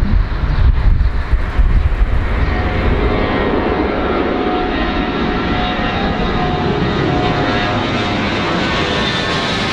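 Jet airplane engines running, with a high whine that slowly falls in pitch and grows stronger towards the end, over a steady rush. A low wind rumble on the microphone in the first couple of seconds.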